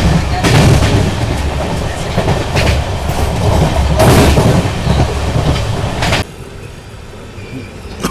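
Passenger train coach running along the track: a heavy rumble of wheels on rails with a clack of rail joints every second or two. About six seconds in it cuts off suddenly, leaving a much quieter background.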